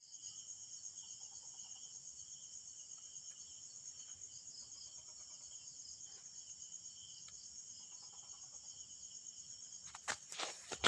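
Insects chirring steadily, high-pitched with a fast even pulse. Near the end a few sharp clicks and knocks.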